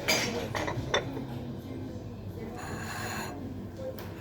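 A few sharp clicks and knocks in the first second, then a short scraping or rustling noise about two and a half seconds in, over a faint murmur of voices.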